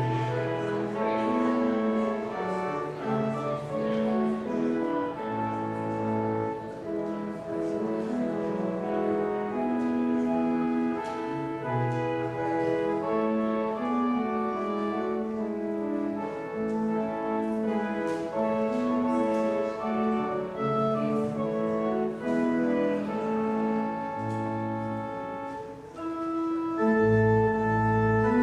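Organ playing slow, held chords over a moving bass line, growing louder with deeper bass notes near the end.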